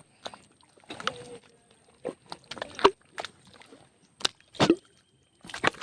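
A string of short, irregular splashes and knocks of water, about seven in under six seconds.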